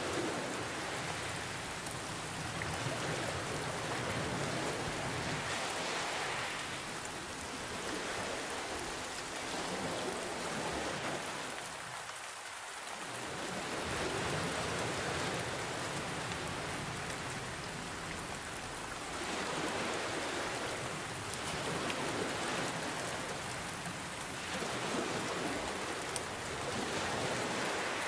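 Steady rain falling, mixed with ocean waves that swell and ease off every several seconds, with a brief lull about halfway through.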